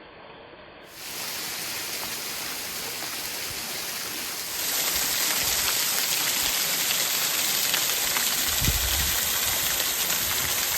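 Water of a small waterfall rushing and splashing in a steady hiss, coming in about a second in and growing louder about halfway through. A brief low rumble near the end.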